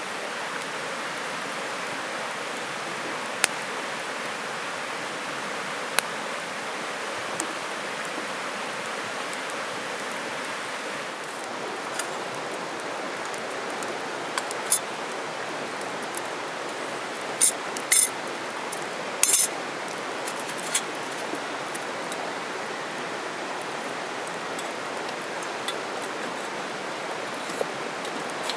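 Steady rushing noise, like flowing water, with sharp clicks and clinks scattered through it and a tight cluster of them about eighteen seconds in.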